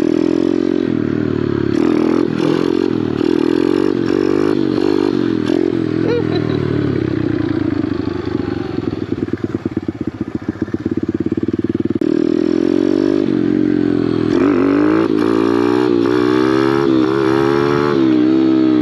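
Small Kawasaki pit bike's single-cylinder four-stroke engine revving up and down under throttle during wheelie attempts. The engine drops to a slow, chugging low idle from about eight to twelve seconds in, then revs in repeated rises and falls near the end.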